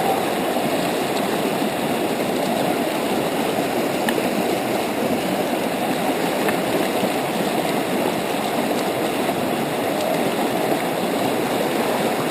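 River water rushing steadily, a constant even noise.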